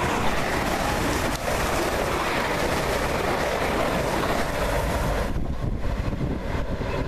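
Train running through the station at speed: a loud, steady rush of wheel and air noise, which thins out about five seconds in.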